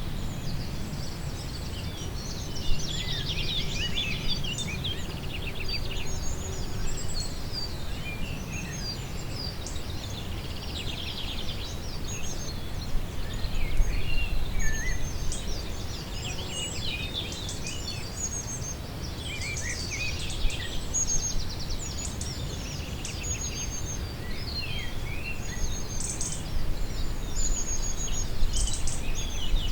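Several songbirds singing and calling throughout, with many short chirps, trills and high whistles, over a steady low rumble.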